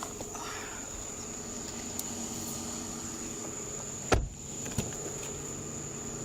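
Steady hum of an idling vehicle under a thin, steady high whine. A sharp knock comes about four seconds in, with a lighter one shortly after.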